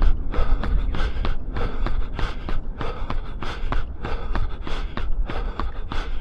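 A runner's footsteps striking the path at a steady cadence of about three a second, with hard, rhythmic breathing at threshold effort and a steady low rumble underneath.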